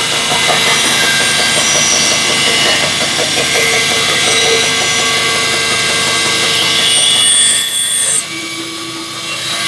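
Bandsaw running and cutting a curve in a piece of wood; the sound drops sharply about eight seconds in.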